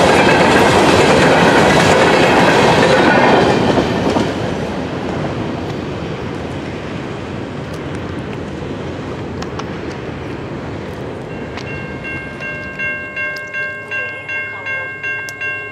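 Hopper cars at the tail of a freight train roll past, wheels clacking over the rail joints, the noise dropping away about four seconds in as the train clears. From about eleven seconds in, a ringing starts, repeating about twice a second.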